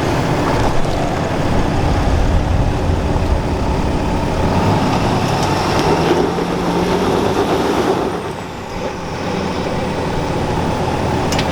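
Ram 2500's Cummins inline-six turbodiesel working hard under load on a steep rocky climb. It eases off briefly about eight seconds in, then picks back up.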